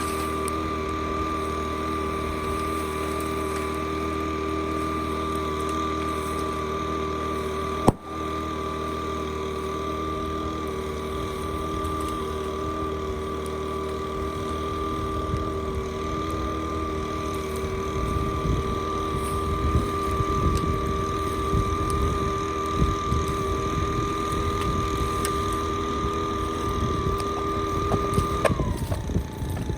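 A motor running at a steady speed with a constant drone, then dropping in pitch and winding down near the end. A single sharp knock about eight seconds in.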